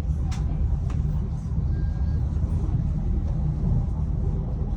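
A slow passenger train running, heard from on board: a steady low rumble with a couple of faint clicks near the start.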